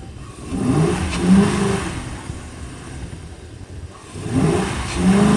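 Dodge Charger R/T AWD's Hemi V8 revving hard twice, about three seconds apart, each time rising in pitch and falling back, as the car is driven under load through deep snow.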